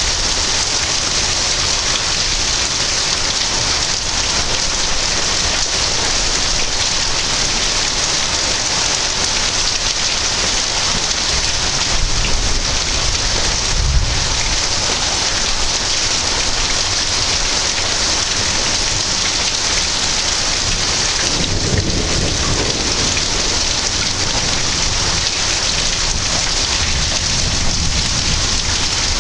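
Heavy rain falling steadily, with thunder rumbling twice: once a little before the middle and again about three quarters of the way through.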